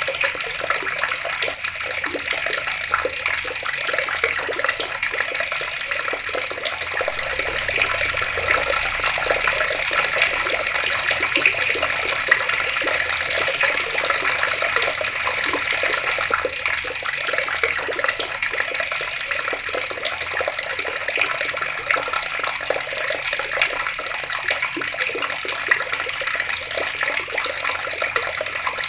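Water running steadily from an open tap and splashing, an even rushing with a fine continuous patter.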